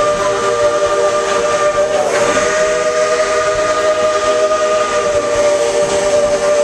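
Steam locomotive whistle blowing one long chord of several steady tones at once, with a brief dip about two seconds in, over a hiss of steam.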